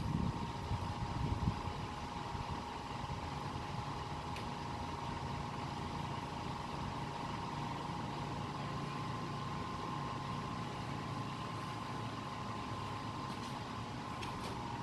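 A machine running steadily: a low hum with a constant high whine above it.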